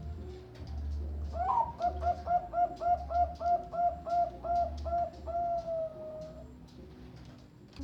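Zebra dove (perkutut, Bangkok strain) singing: a quick series of about a dozen even coos followed by one long drawn-out closing note.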